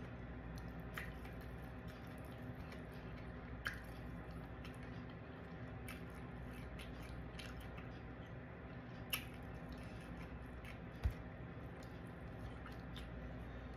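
Chewing shrimp and broccoli with wet mouth sounds, and scattered light clicks of a plastic fork picking at food in a styrofoam takeout box, over a steady low hum. A single sharp knock about eleven seconds in is the loudest sound.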